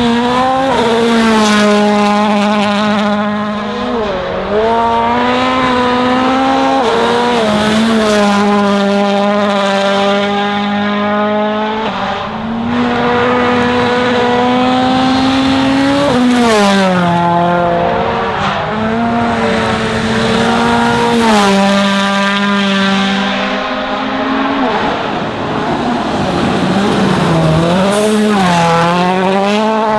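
Toyota Yaris WRC rally car's turbocharged 1.6-litre four-cylinder engine running hard at high revs. Its pitch drops sharply and climbs again several times as the driver shifts and lifts.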